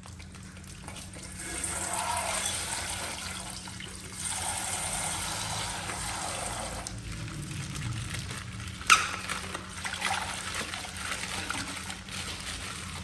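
Coloured water pouring and trickling out of a popped plastic ice-pack bag, in several surges, with a sharp snap about nine seconds in.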